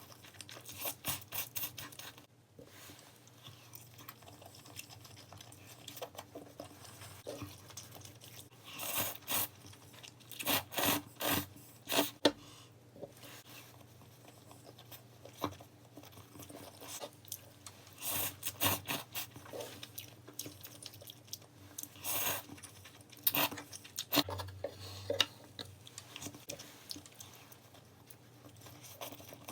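Close-miked eating sounds: irregular bursts of crisp crunching and chewing with short quiet gaps between.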